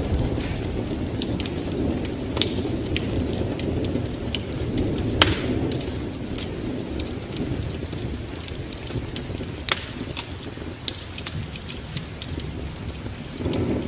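Wood fire in a fireplace crackling: scattered sharp pops and snaps over a steady low rumble of burning.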